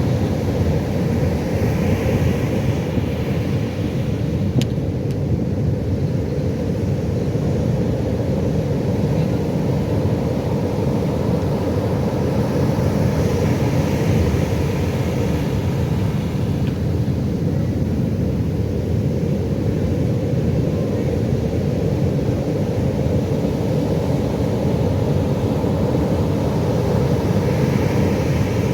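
Pacific Ocean surf rushing and rumbling steadily, with three brighter washes of breaking waves: about two seconds in, about halfway, and near the end.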